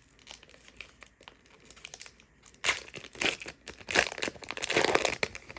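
Foil wrapper of a trading-card pack crinkling and tearing as it is opened, in several bursts in the second half after a quieter start.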